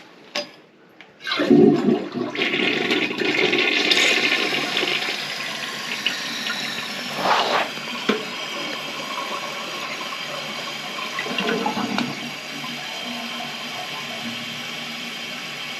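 A toilet being flushed: a loud rush of water starts about a second and a half in and eases after a few seconds into a steady running-water sound as the tank refills. This is a toilet with a weak flush that needs several flushes to clear.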